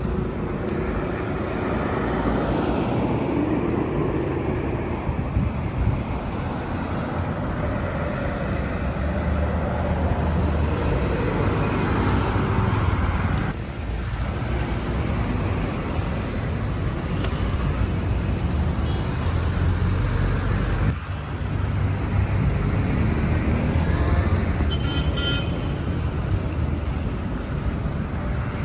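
Road traffic noise: motor vehicles running and passing steadily, with a brief high-pitched tone near the end.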